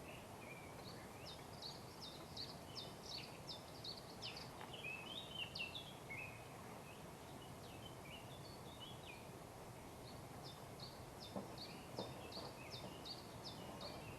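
A songbird singing: two runs of quick, repeated high notes, about three a second, with lower warbling notes between them, over a steady outdoor background hiss.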